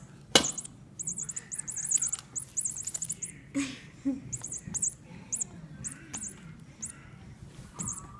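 A small bird chirping in repeated bursts of very high, rapid twitters while a cat plays with it. There is a sharp knock about half a second in.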